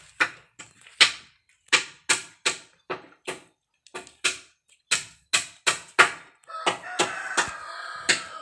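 Repeated sharp strikes, about two a second with uneven spacing, each ringing briefly. Near the end a steadier, hissy sound with a few tones joins them.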